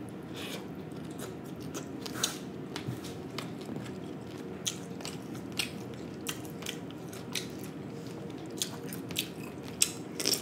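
A person chewing fried snapper with the mouth close to the microphone, making a string of short wet clicks and smacks. Louder crisp bites into a marinated cucumber slice come near the end.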